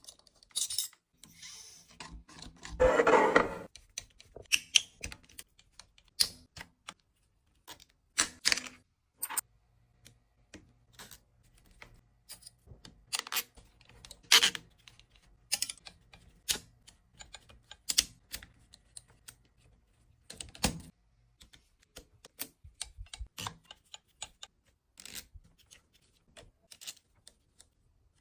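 Scattered small clicks, taps and light knocks of RC car parts and hand tools being handled, with a brief rattling burst about three seconds in.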